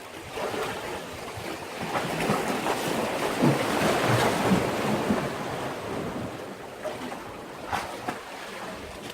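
A sea wave surging against a breakwater: the wash swells up, is loudest about four seconds in, then drains away, with a couple of sharp splashes near the end.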